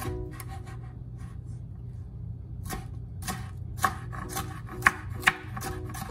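Knife chopping on a cutting board: after a quiet start, a run of short strokes about two a second begins about two and a half seconds in, with a few sharper knocks among them. Soft background music underneath.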